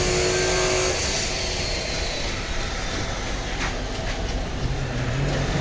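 Steady low vehicle rumble with a couple of faint clicks about three and a half to four seconds in.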